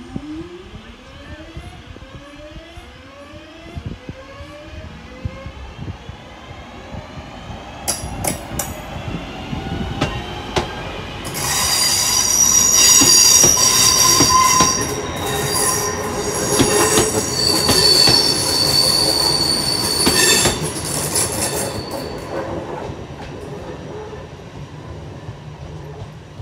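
Class 323 electric multiple unit running past close by: a rising whine in the first few seconds, then loud wheel squeal from the curved track with clatter over the rail joints for about ten seconds, fading near the end.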